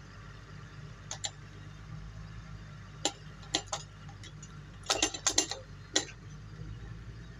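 Sharp metal clicks and clinks of tools and wheel parts during a forwarder wheel change: a few single knocks, then a quick cluster of them about five seconds in. A steady low engine hum runs underneath.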